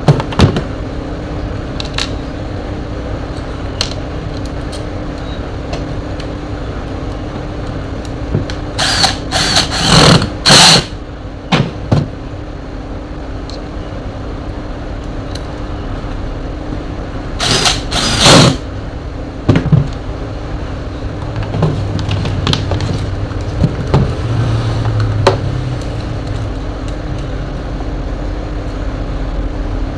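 Bench repair handling noises on an electric fan: a few loud, brief scraping bursts about a third and again about halfway through, with scattered clicks, over a steady background hum.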